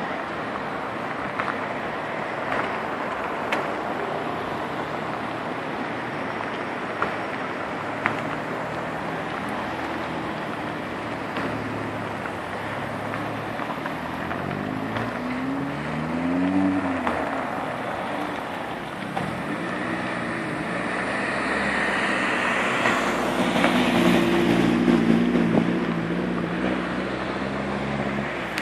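SEAT hatchback engines running as cars move slowly past over gravel, with wind on the microphone. One engine revs up and falls back about halfway through, and a car runs closer and louder near the end.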